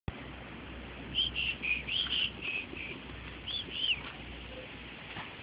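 A bird calling: a quick run of short, arched chirps about a second in, then two more a moment later, over a steady low hum.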